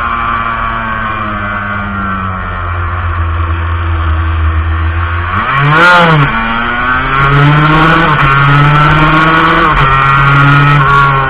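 Montesa Cappra 125's two-stroke single-cylinder engine running under the rider, heard on board. About six seconds in it revs sharply up and straight back down, then it pulls at a higher, steadier pitch with a couple of brief dips in the throttle.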